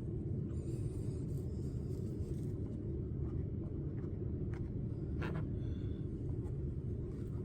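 Steady low background rumble, with a few faint light clicks and taps scattered through it.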